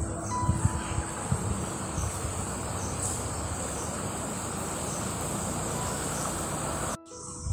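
Diced potatoes, peas, carrots and beetroot sizzling in hot oil in a karahi, a steady even hiss, with a few light scrapes of the metal slotted ladle in the first second or so. The sound cuts off abruptly near the end.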